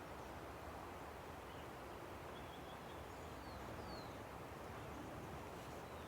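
Steady rush of a river, with a few faint, short bird chirps, falling notes, near the middle.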